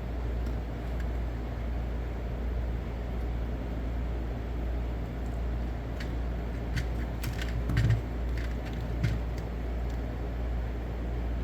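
Steady low hum and rumble, with a cluster of small clicks and light knocks from about six to nine seconds in, as needle-nose pliers work at a speaker being desoldered from a circuit board.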